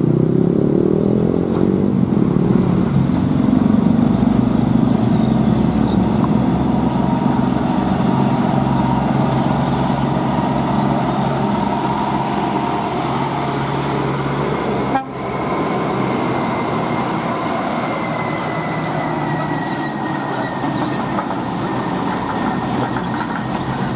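Heavy diesel trucks of a convoy running past, with a loud, steady engine sound and long, held horn tones over it, one slowly falling in pitch. The sound breaks off for an instant a little past the middle.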